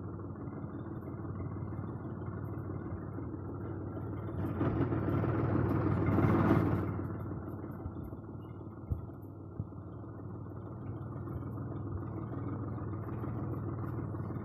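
Tractor engine running steadily, rising to a louder rev for a couple of seconds about midway before settling back, with two short knocks a little after.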